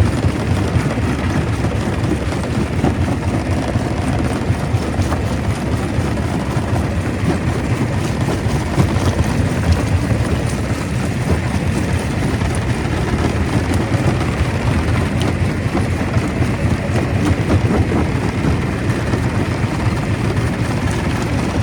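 Stone crusher running: a steady, loud, low mechanical rumble with a constant fine clatter over it.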